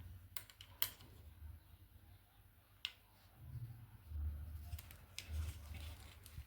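A handful of sharp light clicks and taps, spread unevenly with several close together a little after the middle, over a low rumble.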